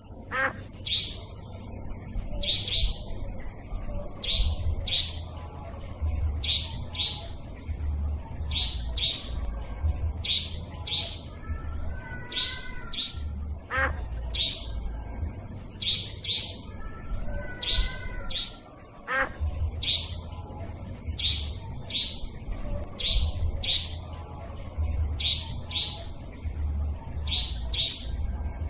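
Recorded nightjar (cabak) calls played as a bird-lure track: short, sharp, high-pitched notes, mostly in quick pairs, repeating about every two seconds, with a few fainter lower warbling notes and a low steady hum underneath.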